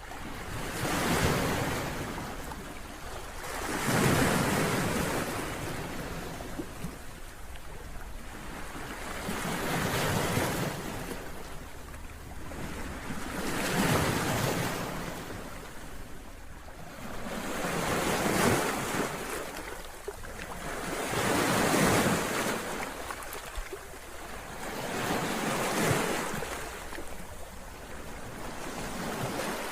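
Mediterranean Sea waves surging and washing in, the sound swelling and fading every few seconds, about eight times in all.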